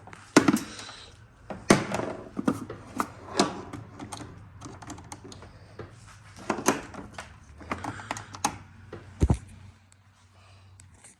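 Irregular clicks, clacks and knocks of hand work on a car, with tools and hardware handled. A faint low hum runs underneath.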